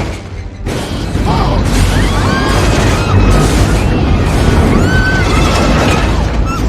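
Film soundtrack of a plane crash-landing: a loud, continuous rumble and crashing with repeated short screeches, under dramatic score music.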